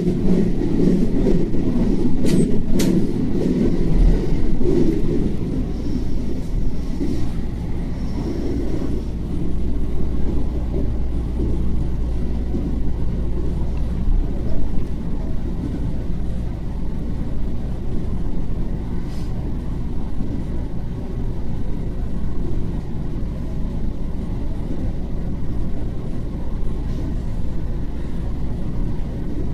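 JR West 227 series electric train running along the track, heard from inside the front car: a steady low rumble of wheels and running gear, louder for the first few seconds and then easing. A couple of sharp clicks come about two to three seconds in.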